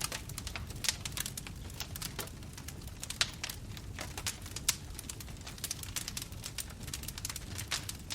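Wood bonfire burning, crackling with frequent irregular pops and snaps over a soft low rumble of the flames.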